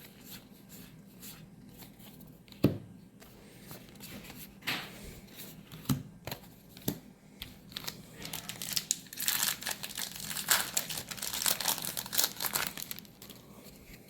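Foil wrapper of a Magic: The Gathering booster pack being torn open and crinkled: a few light taps and handling clicks first, then a dense crinkling for several seconds in the second half.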